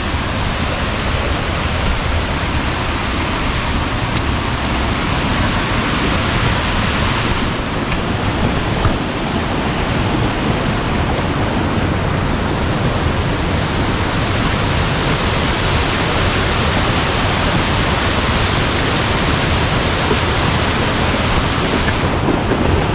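Waterfall: a steady rush of falling water with an even texture, its tone shifting slightly about a third of the way in.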